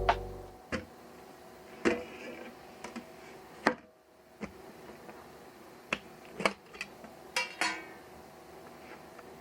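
Background music fades out at the start, followed by a series of light, irregular clicks and clinks of small hard objects being handled, about a dozen in all.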